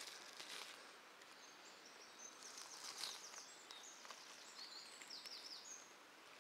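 Faint songbird song: a run of short high chirps with a few quick falling notes, over a quiet background with a few faint rustles near the start.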